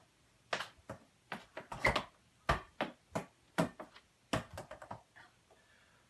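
Soccer ball being worked with the feet: about a dozen sharp taps and knocks of foot on ball and ball on a hard floor, at an uneven pace, stopping about five seconds in.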